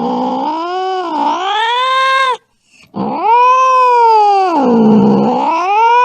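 Cat yowling angrily: a long wavering yowl that breaks off about two and a half seconds in, then a second long yowl that dips low in the middle and rises again.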